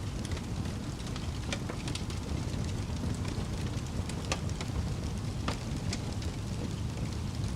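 Campfire burning with sharp, irregular crackles and pops of the wood over a steady low rumble.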